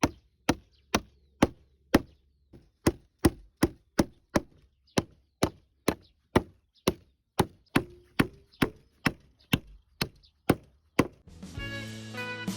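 Hammer blows driving nails into wooden boards, a steady run of sharp strikes about two a second. Guitar music comes in near the end.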